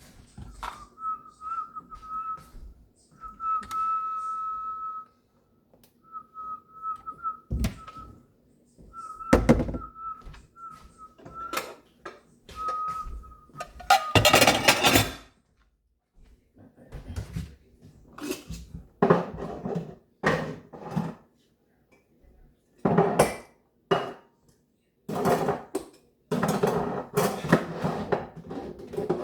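Dish clean-up sounds: a steady high whistle comes and goes for the first dozen seconds, then a loud rush at about the middle, followed by repeated clattering and knocking of dishes and pans.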